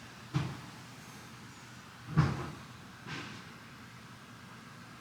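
Three short knocks of the model RC truck being handled and set down on a hard surface. The loudest is about two seconds in, and a softer one follows close after it.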